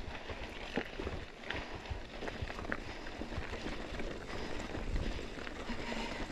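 Footsteps crunching on rocky, gravelly desert ground, with irregular small clicks of grit and stones underfoot.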